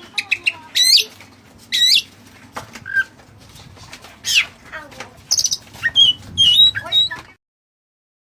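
Oriental magpie-robin (kacer) singing vigorously: a rapid run of sharp whistles, quick upslurred and looping notes and short chips. It cuts off abruptly near the end.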